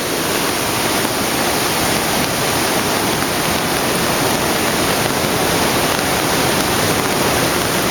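Floodwater rushing steadily and loudly through a swollen creek.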